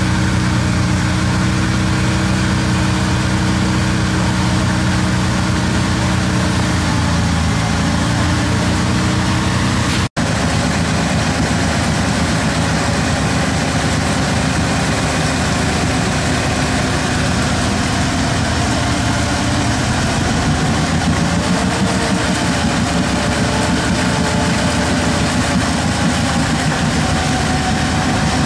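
Off-road 4x4's engine running steadily while the vehicle sits bogged in deep mud. The sound cuts out for an instant about ten seconds in, after which the engine note is rougher and wavers.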